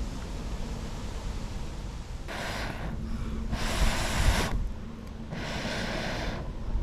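Three long breath sounds, each about a second and spaced roughly a second apart, over a steady low wind rumble on the microphone.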